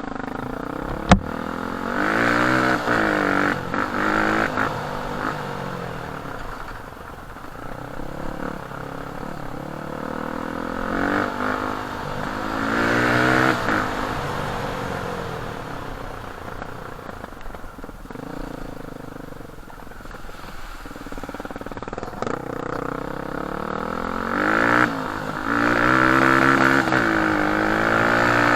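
Enduro dirt bike engine revving up and falling back again and again while riding, its pitch climbing and dropping every few seconds. A single sharp click about a second in.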